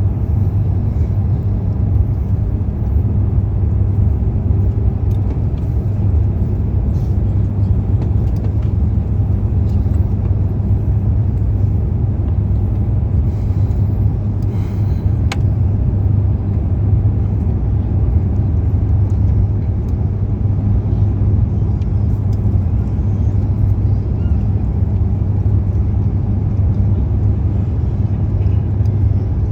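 Airliner cabin noise inside an Airbus A350-900: a steady, loud, low rumble that does not change.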